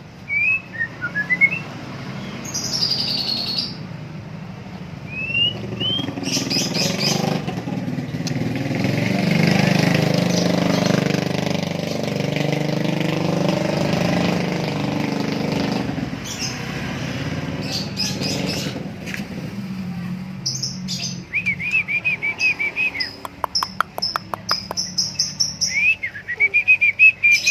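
White-rumped shama (murai batu) singing: scattered whistles and rising notes, quick chattering calls, and a run of rapid repeated notes near the end. A steady low noise swells up in the middle and fades again.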